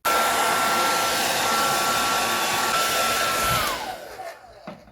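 Handheld hair dryer switched on abruptly, blowing steadily with a high whine. Near the end it is switched off and its motor whine falls as it spins down.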